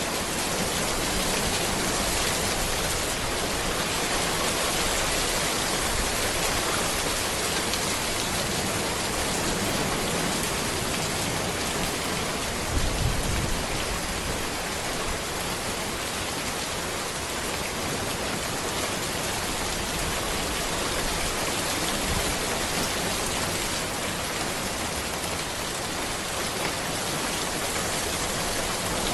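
Steady rain falling on a road among trees, an even hiss of many drops. A brief low thump stands out about halfway through.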